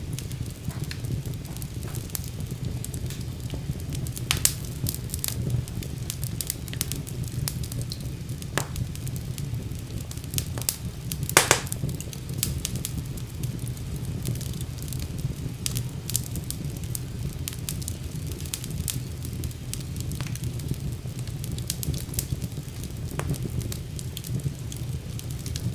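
Wood fire burning in a fireplace: a steady low rumble of flames with frequent irregular crackles and pops, one louder pop about eleven seconds in.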